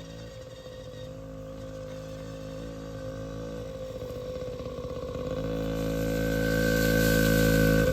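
Yamaha PW50's small single-cylinder two-stroke engine running at a steady pitch, growing steadily louder as the bike comes closer.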